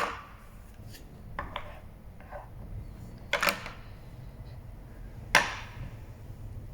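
Toy figures being handled: a few sharp knocks and clatters about two seconds apart, the loudest about five seconds in.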